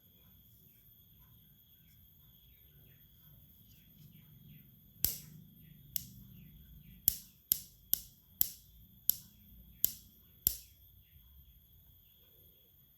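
About eight sharp knocks or taps at uneven spacing, starting about five seconds in and ending after about ten and a half seconds, over a faint steady high whine.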